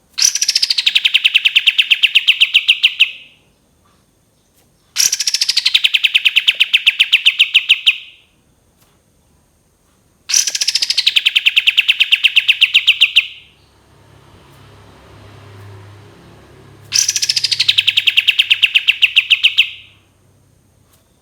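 Kapas tembak bulbul singing four bursts of about three seconds each, with short pauses between. Each burst is a rapid run of notes that drops in pitch at the start and then holds steady.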